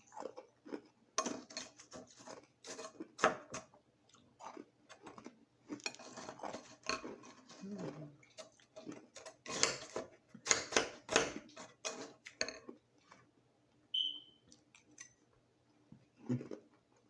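Crushed ice crunched and chewed in the mouth: irregular crunches come thick and loud for most of the first twelve seconds, then thin out. A brief high squeak sounds near the end.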